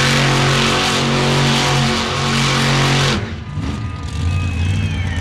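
Monster truck engine running loud at a steady high speed, cutting off abruptly about three seconds in and dropping to a lower engine rumble.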